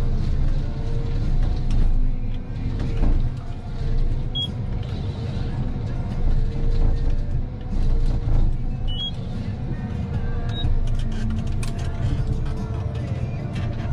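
Heavy forestry machine's diesel engine running steadily under load, with a wavering whine above the rumble and occasional knocks.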